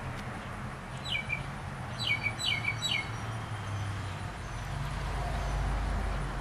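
A small bird chirping: four short notes that slide down in pitch, one about a second in and three in quick succession around two to three seconds in, over a low steady background rumble.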